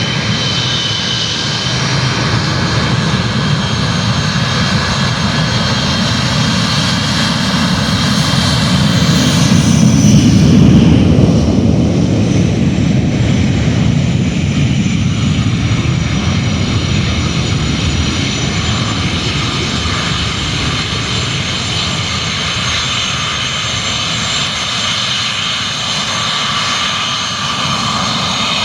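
Boeing jet airliner's engines at takeoff power: a loud, steady jet roar with a high whine on top. It swells to its loudest about ten seconds in, then eases a little.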